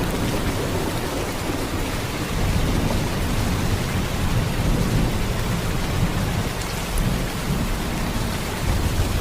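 Heavy rain, a steady dense downpour with a deep rumble underneath.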